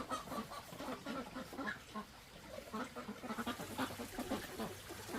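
Farm poultry calling, with many short calls close together.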